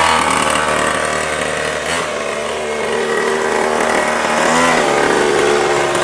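Mini pocket bike's small pull-start two-stroke engine running, its pitch dipping about two seconds in and rising again with a rev near the end.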